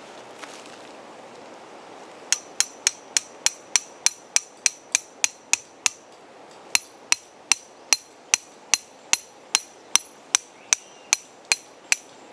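Hammer striking a metal tent peg to drive it into the ground: a quick, even run of ringing blows, about three a second, a short break, then a second slightly slower run.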